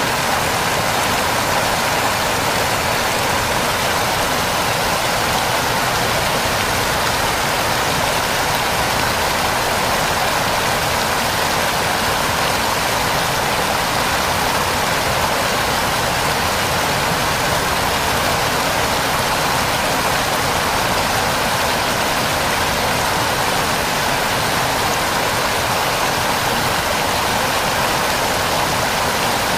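Waterfall: a steady, unbroken rush of falling water, strongest in the middle and upper range.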